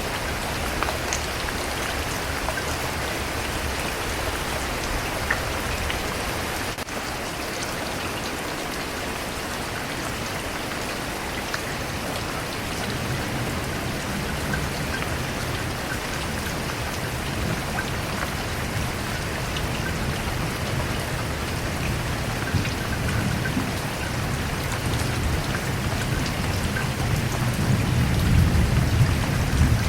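Steady heavy rain pattering densely, with a low rumble of thunder that builds through the second half and is loudest near the end.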